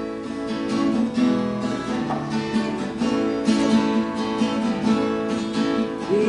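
Acoustic guitar strummed in chords, playing the introduction to a country gospel song.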